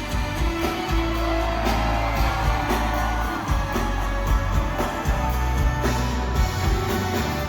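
Live pop band music at full volume, with a steady drum beat and heavy bass.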